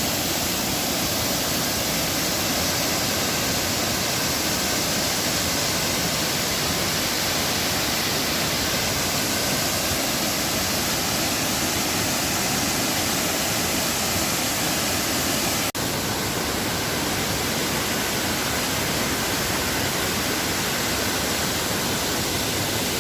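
Huluganga Ella waterfall pouring down close by, a loud steady rush of falling water, broken by a momentary dropout about two-thirds of the way through.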